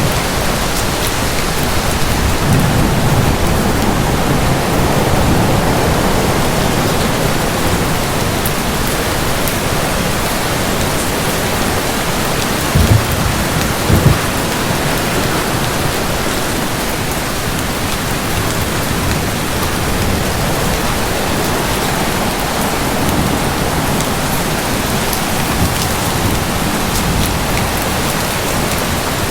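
Steady heavy rain with a thunderstorm: a low rumble of thunder swells early on, and two short, loud low thuds come about halfway through.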